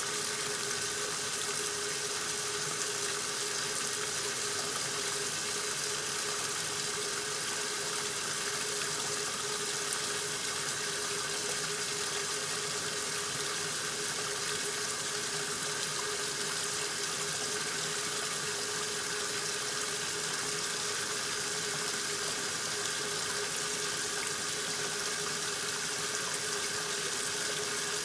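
A 1969 Westinghouse front-loading washing machine filling: water runs into the tub with a steady hiss over a steady hum.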